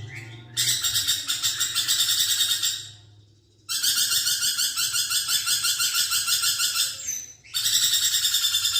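Lorikeet (nuri perkici) chattering in three long bouts of fast repeated high notes, with short pauses between them.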